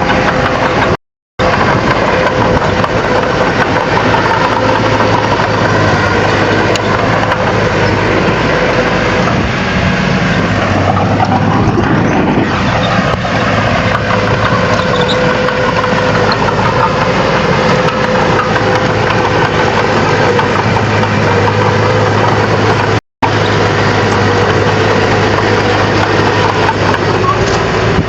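Bulldozer diesel engine running steadily under work, with a steady engine hum and a noisy mechanical clatter. The sound cuts out completely for a moment twice, about a second in and near the end.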